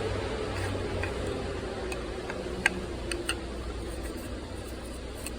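A few light clicks and ticks from a small prying tool working at the old rubber seal on a canister oil-filter housing cap to pry it off, over a steady low hum. The sharpest click falls near the middle.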